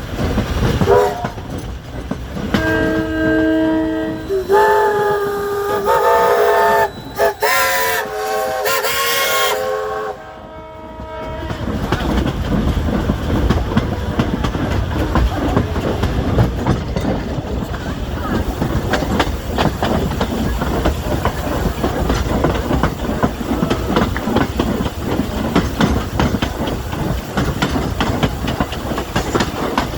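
Steam locomotive whistle sounding in several blasts of shifting pitch for the first third, then the train running: a steady rumble of wheels on rail with rapid clickety-clack.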